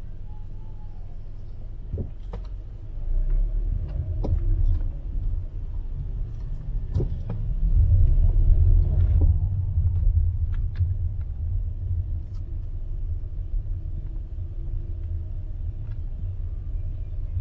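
Low road-traffic rumble that swells for several seconds as a vehicle goes by, peaking about halfway through and then easing, with a few scattered clicks.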